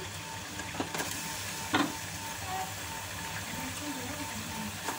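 Potatoes frying in hot ghee in an aluminium pot, a steady sizzling hiss, with a few short knocks as eggplant slices are dropped in, the loudest about two seconds in.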